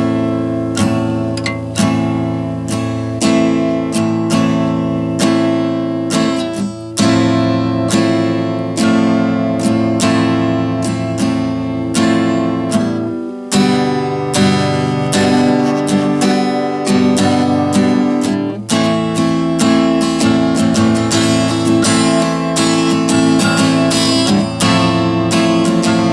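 Acoustic guitar strummed in a steady rhythm, bashing through a few chords on strings one or two years old, untuned.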